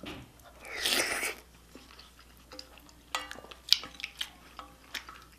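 Eating utensils clinking and tapping against a bowl: a scattered run of sharp clicks, several with a brief ringing tone, starting about two and a half seconds in. Just before them, about a second in, a short breathy hiss.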